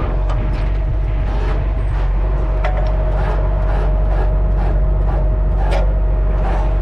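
Heavy truck engine running steadily, with a steady whine over it and scattered clicks and rattles.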